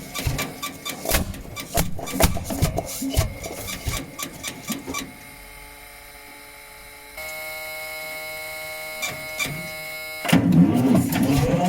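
Lanz Bulldog's single-cylinder two-stroke semi-diesel running cold with no exhaust pipe or manifold fitted, firing in loud, uneven strokes. About five seconds in, the firing gives way to a quieter steady hum; near the end the loud uneven strokes start again.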